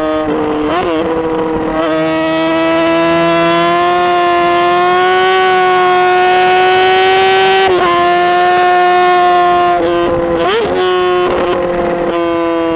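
Motorcycle engine held at high revs, its pitch nearly steady and creeping slowly up, with a few brief dips and recoveries.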